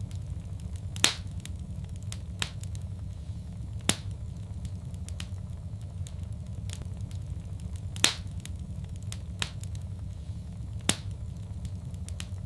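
Wood fire crackling in a fireplace: scattered sharp pops, the loudest about a second in and again near eight seconds, with fainter ticks between, over a steady low rumble.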